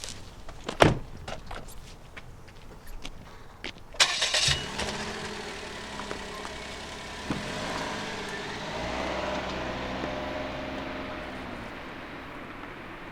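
A few clicks and knocks, then a car engine starts about four seconds in with a loud burst and settles into a steady idle that slowly fades.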